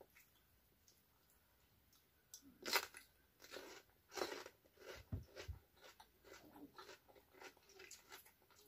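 A crunching bite into a piece of raw cucumber, about three seconds in, followed by repeated crunchy chewing close to the microphone.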